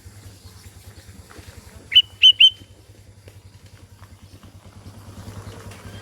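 Sooty-headed bulbul (kutilang) giving three quick, loud whistled notes about two seconds in, each sweeping up sharply. A faint, steady low hum runs underneath.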